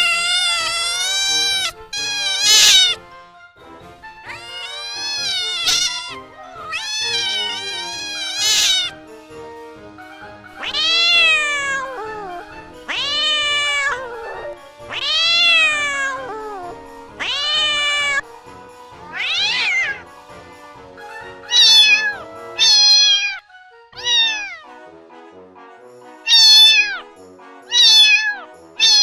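Kittens meowing over and over, about fifteen separate high calls that each rise and fall in pitch, coming every second or two, with the last few shorter and quicker. Faint background music plays underneath.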